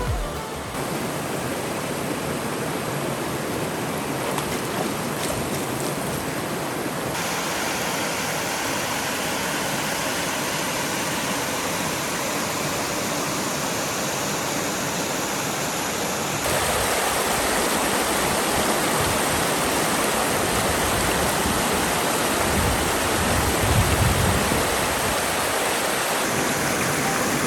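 Water rushing over a small creek cascade, a steady rush that jumps abruptly in level twice, louder after the second jump. A brief low rumble comes near the end.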